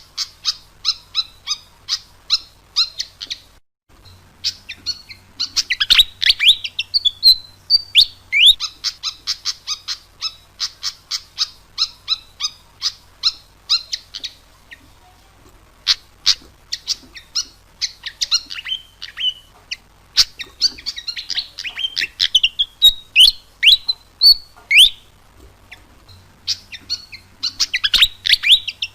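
Malaysian pied fantail singing: fast runs of high chirps, about four or five a second, broken every few seconds by clusters of quick falling notes, with a brief pause about four seconds in.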